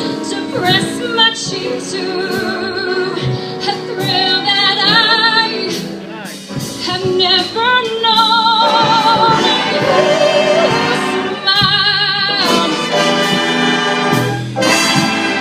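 Live band music with a singer, long notes sung with marked vibrato.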